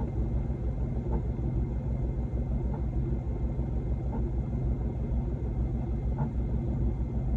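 Semi truck's diesel engine running, a steady low rumble with a fast even pulsing, heard from inside the cab.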